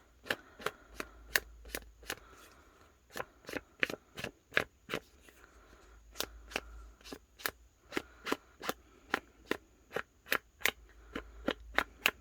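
Paper edge being dabbed with ink: a quick run of short, sharp tapping dabs, about three a second, with a couple of brief pauses.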